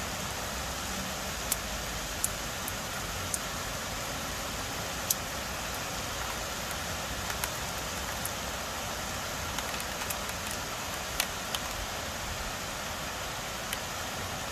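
Steady rain hiss, with sharp ticks at irregular moments as single drops strike close to the microphone.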